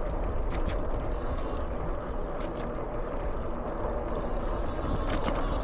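Steady rumble of an e-bike rolling over a rough, potholed concrete path, mixed with wind on the microphone, with a few light clicks and knocks from the bike.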